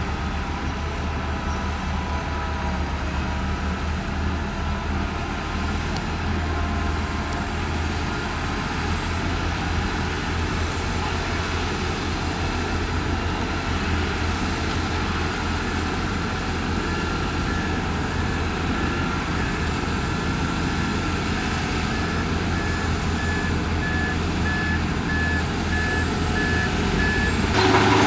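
Heavy diesel earthmoving machinery running steadily at a road-building site. A reversing alarm beeps evenly from a little past halfway until just before the end.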